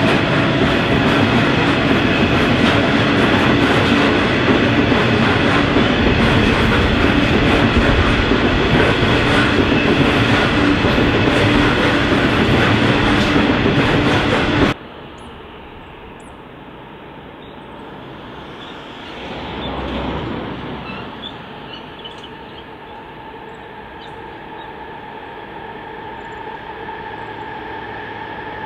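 Diesel-hauled freight train passing close by: a loud, steady rumble and clatter of wagons on the rails. About halfway through it cuts off abruptly to a much quieter distant train, which swells briefly and then slowly grows louder as it approaches.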